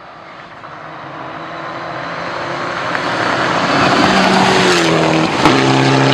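A rally car approaching at speed, its engine and tyre noise growing steadily louder over about four seconds. Around five seconds in the engine note drops and settles, with a sharp crack just after.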